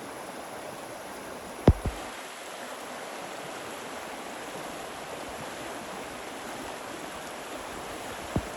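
Steady rushing noise, with a sharp knock a little under two seconds in, a smaller one just after it, and another knock near the end.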